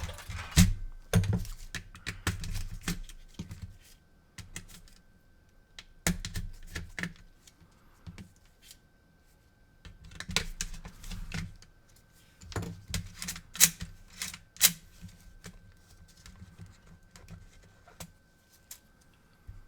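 Clicks, taps and light plastic rattles in irregular clusters from handling an opened PS4 Blu-ray drive and turning its gears by hand, with quiet gaps between. A faint steady high tone runs underneath.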